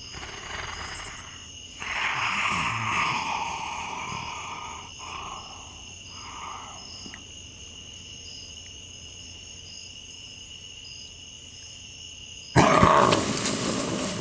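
Growling creature sound effects, two rough growls in the first half, over a steady high insect drone like crickets at night. Near the end comes a sudden loud burst, the loudest sound here.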